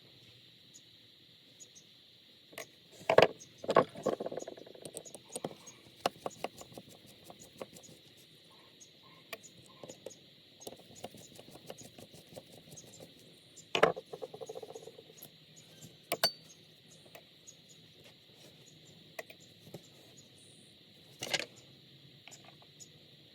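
Small metal carburetor parts and hand tools being handled on a work surface: scattered light clicks and clinks, with a few louder knocks about three seconds in, around fourteen seconds and near the end, over a steady faint hiss.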